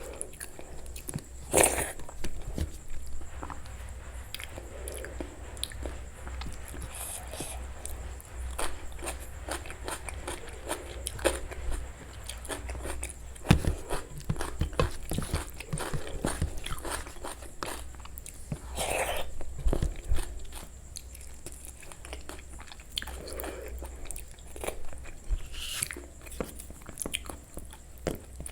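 Close-miked eating sounds: chewing and mouth clicks with scattered crunchy bites, the loudest about one and a half, thirteen and nineteen seconds in.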